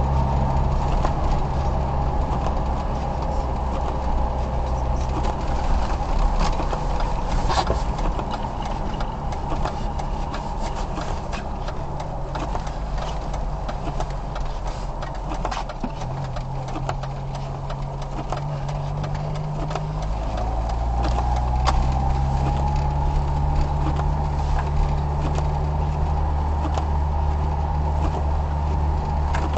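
Car engine and road noise while driving: a steady low engine hum that eases off through the middle and builds again about twenty seconds in as the car picks up speed, with scattered light clicks throughout.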